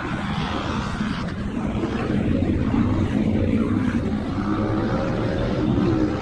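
Motocross bike engines running and revving, their pitch rising and falling.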